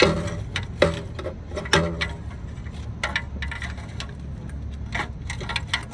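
Metal hand tools clicking and clinking in an engine bay, with irregular sharp ticks and a few brief ringing strikes in the first two seconds.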